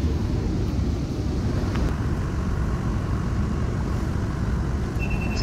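Steady low rumble of a moving vehicle, with a short high beep near the end.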